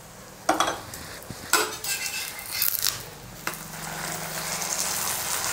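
Parotta frying in oil on a dosa griddle (tawa), a steady sizzle, broken by three sudden scrapes of a metal utensil on the griddle as oil is spread and the parotta is turned.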